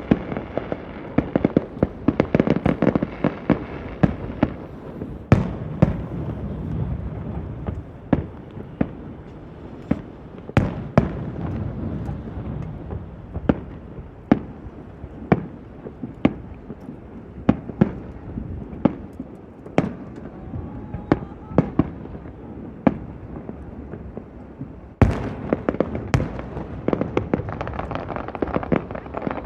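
Fireworks display: a run of sharp shell bursts, irregular and roughly a second apart, over continuous crackling. The crackling is densest at the start and again near the end.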